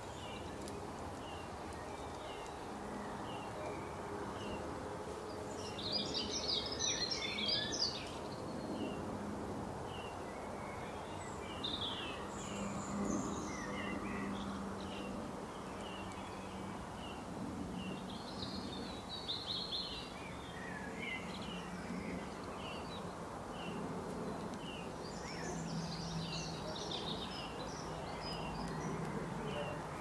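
Outdoor birdsong: one bird repeats a short high chirp about once a second, while bursts of busier, higher-pitched song come in several times, over a steady low background noise.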